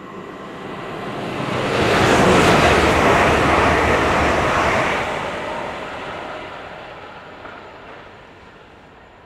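Hull Trains Class 802 bi-mode express passing at speed: a rushing of wheels on rail and air that swells to a loud peak about two seconds in, holds for a few seconds, and fades as the train moves away.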